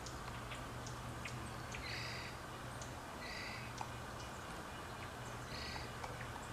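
Wild birds calling: a short harsh call comes three times at uneven intervals, amid many quick, high chip notes.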